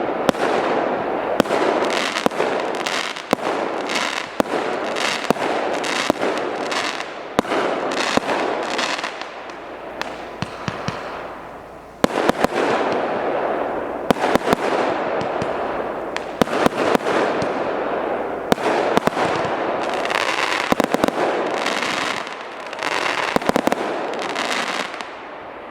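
A 200-shot, 0.8-inch-calibre fireworks cake firing in a rapid, dense string of shots and bursts. It thins out about ten seconds in, restarts abruptly about two seconds later and keeps firing until it dies away near the end.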